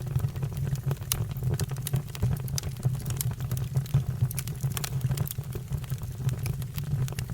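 Fire crackling, with frequent irregular sharp pops over a steady low rumble of the flames.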